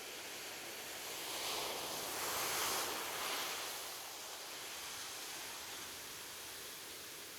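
Gentle ocean surf: a steady wash of waves, with one wave swelling louder about a second in, peaking near the middle and falling away again.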